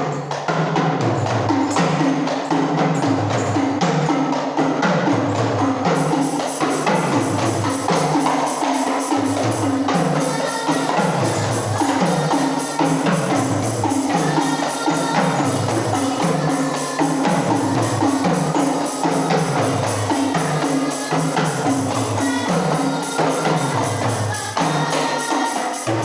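Rebana frame drums played together in a steady, repeating rhythm, with deep bass strokes under sharper higher slaps.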